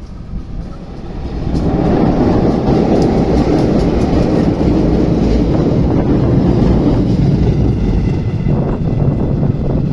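Diesel-hauled passenger train passing close by. First the locomotive's bogies, then INKA-built passenger coaches roll past with a loud, steady rumble of wheels on rail that builds about a second and a half in, with a few sharp wheel clicks.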